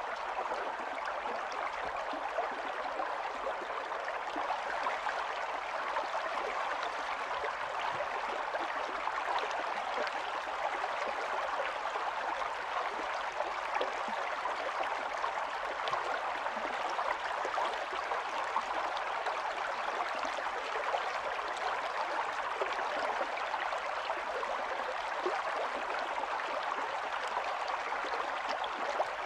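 Stream water running and burbling steadily over stones, with fine splashes and trickles in an even rush.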